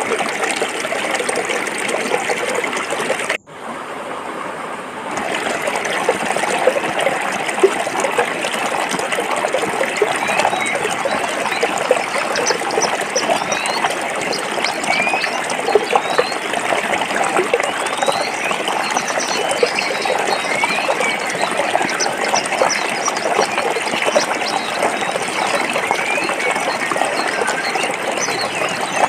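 Stream water flowing and splashing over rocks, a steady rushing and trickling. About three and a half seconds in it cuts out for an instant and comes back softer for a second or two before returning to full level.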